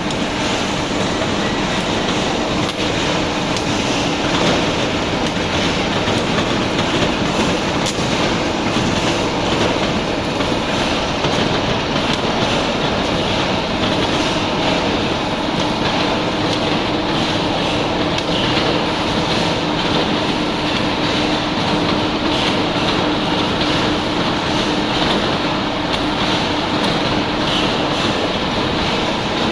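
Steel cage welding machine running, a continuous mechanical clatter of rapid clicks over a steady hum.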